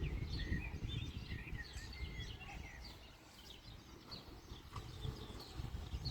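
Songbirds chirping and twittering in short calls and trills, over a steady low rumbling noise that fades somewhat midway.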